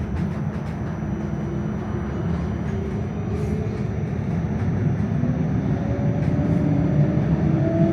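Electric tram running on rails: a steady low rumble with a faint whine from the motors that rises in pitch, growing louder over the second half as the tram gathers speed. A few light clicks and rattles sound along the way.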